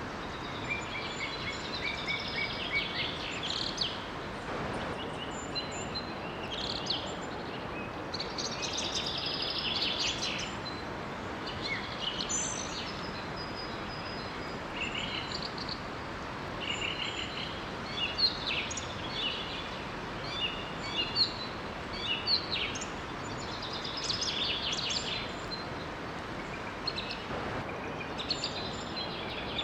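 Several songbirds chirping and trilling on and off over the steady rush of a small waterfall.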